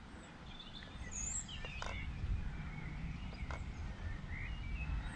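Birds chirping and calling over a low rumbling background noise that grows gradually louder.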